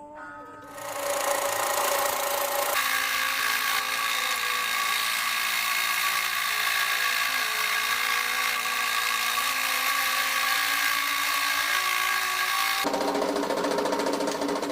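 An electric power tool runs with a steady motor whine and hiss, starting about a second in. Its sound shifts twice: a few seconds in, and again about two seconds before the end, when the hiss drops and a lower sound takes over.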